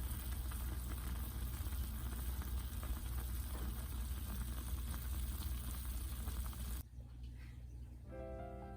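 Bulgogi sizzling and bubbling in a hot earthenware pot (ttukbaegi), a steady crackling that cuts off abruptly about seven seconds in. Piano music starts near the end.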